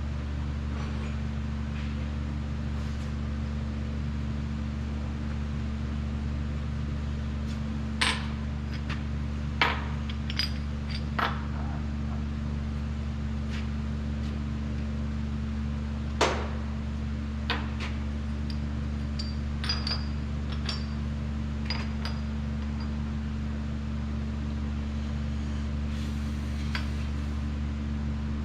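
A steady low machine hum, with a scattering of sharp metallic clinks and taps from tools and parts being handled in the middle stretch.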